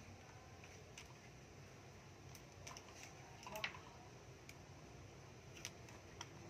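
Near silence with a few scattered faint clicks and one louder click a little past halfway.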